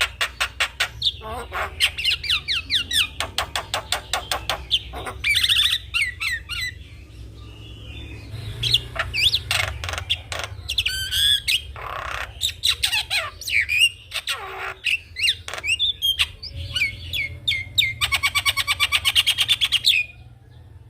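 Javan myna in full song: fast rattling trains of clicks mixed with whistled glides and harsh squawks, breaking off abruptly near the end.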